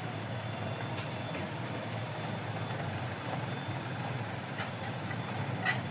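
Small boat engine running steadily at low revs, a constant hum, with a few faint clicks over it.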